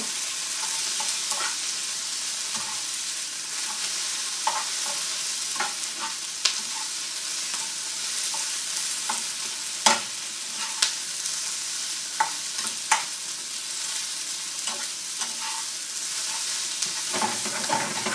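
Square sausages and chopped onion sizzling steadily in non-stick frying pans, with a slotted spatula scraping and tapping against the onion pan as the onions are stirred. The sharpest tap comes about ten seconds in.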